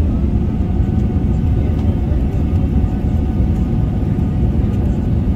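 Airbus A380-800 jet engines and airframe heard from inside the passenger cabin: a loud, steady low rumble with a faint steady whine above it.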